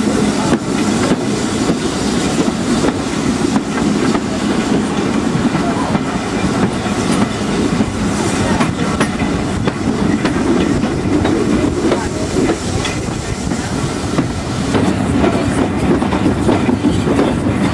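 Steam-hauled passenger train running along the line, heard at an open carriage window: a steady rumble of the carriage with the clatter of its wheels over the rail joints.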